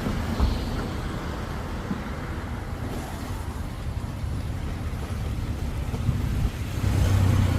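Road traffic: a steady low rumble of passing motor vehicles, with an engine growing louder near the end.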